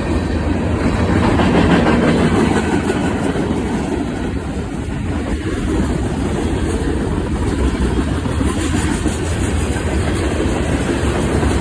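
Norfolk Southern freight train's cars rolling past close by: a steady rumble and rattle of steel wheels on the rails, a little louder a second or two in.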